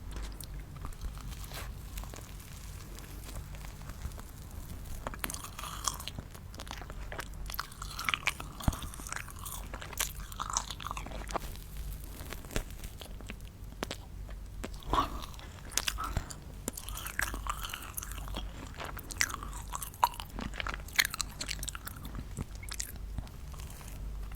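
Close-miked chewing and crunching of candy, irregular wet mouth sounds with sharp crunches, a few louder ones in the second half.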